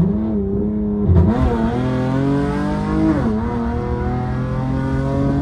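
Tuned V6 Dodge Charger engine accelerating hard through the gears. Its note climbs, drops sharply at upshifts about one and three seconds in, then climbs again.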